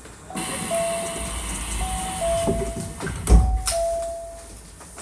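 Hankyu 1300 series electric train running at speed. A repeating two-step ringing tone, higher then lower, sounds three times, typical of a level-crossing warning bell heard as the train passes. There is a heavy thump about three and a half seconds in.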